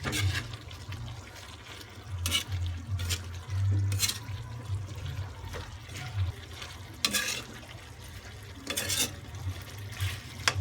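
Pot of meat and vegetable stew bubbling as it simmers, with a steady low hum and a handful of short, sharp sounds at irregular intervals.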